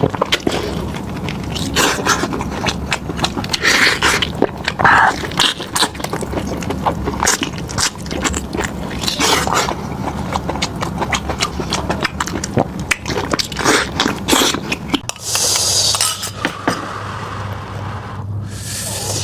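Close-miked eating: chewing and tearing meat, with many irregular wet clicks, smacks and crunches. Near the end the clicks thin out over a steady low hum.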